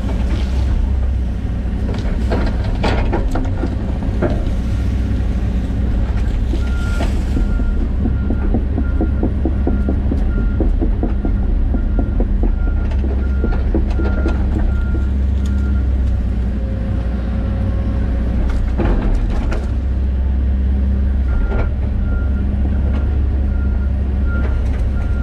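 John Deere 130G excavator's diesel engine running steadily under hydraulic work, with a few knocks and crackles from the digging. A warning alarm beeps about twice a second for a stretch in the middle and again near the end, typical of the machine's travel alarm while it tracks.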